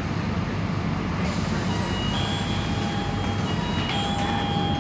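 Scania K230UB Euro 4 bus running, a steady engine and road rumble, with faint high steady tones joining in about two seconds in.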